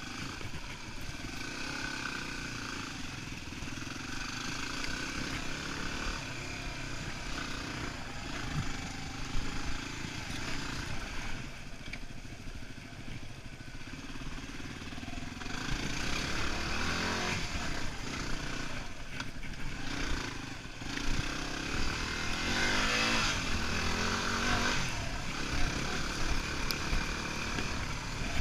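Yamaha WR250R's single-cylinder four-stroke engine running as the dual-sport bike is ridden over a dirt trail, the throttle opening and closing. It gets louder in the second half, where the engine note climbs twice as the bike accelerates.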